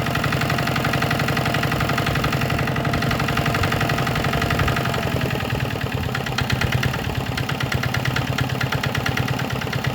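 Yanmar TS50C 5 hp single-cylinder water-cooled diesel engine running smoothly at a steady speed just after a hand-cranked cold start, with an even, rapid beat.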